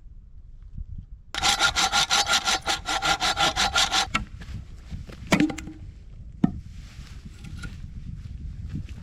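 A saw cutting through wood in quick, even back-and-forth strokes for about three seconds. Then two single knocks follow about a second apart.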